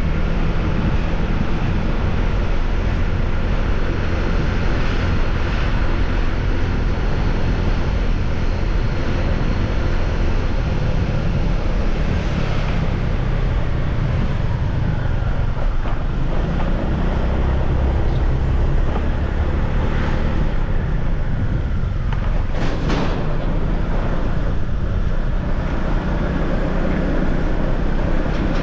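Motorbike riding along a road: the engine running steadily under wind rushing over the microphone, with road noise throughout.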